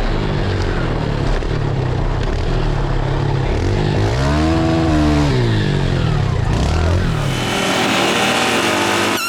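Pit bike engines revving on a motocross track, with one engine climbing in pitch and falling back about four to five seconds in. Near the end the engine sound thins and a brighter hiss takes over.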